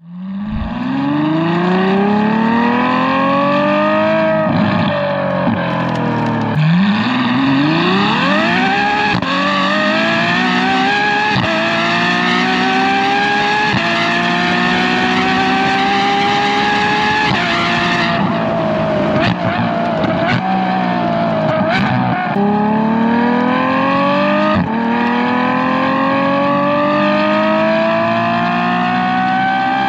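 Ferrari F12 Berlinetta's V12 running through a free-flow X-pipe and valved rear exhaust, heard from a bumper-mounted camera. It accelerates hard, the note climbing and dropping back at each of several upshifts. Around the middle it lifts off and slows with a lower, unsteady note for a few seconds, then accelerates again through two more upshifts.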